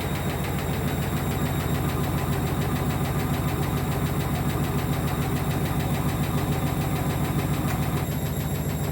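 A 1994 Ocean top-spin washing machine running a spin on an uneven load: a steady motor-and-drum hum with a fast even pulsing, the higher sounds easing slightly near the end. The cabinet stays still despite the imbalance, a sign of its strong suspension.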